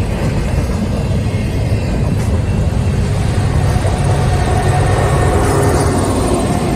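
Double-stack intermodal freight train passing close by: a steady rumble of wheels and loaded well cars on the rails. About four seconds in, a mid-train Canadian Pacific diesel locomotive goes by, adding a steady tone over the rumble.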